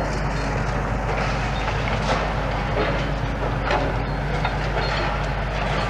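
Demolition excavator's diesel engine running steadily, with scattered cracks and clatters of concrete as it chomps at the building.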